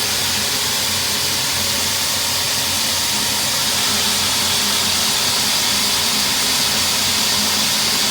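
Steady hiss of water spray washing down an outdoor AC condenser coil, with a faint low hum underneath.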